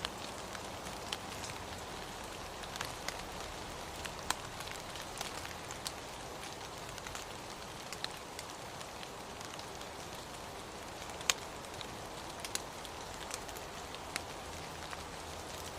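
Steady rain falling on a surface: an even hiss with irregular individual drop ticks, one louder drop about eleven seconds in.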